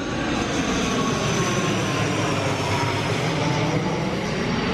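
Airliner flying low overhead: a steady rush of engine noise, with whining tones that slowly fall in pitch as it passes.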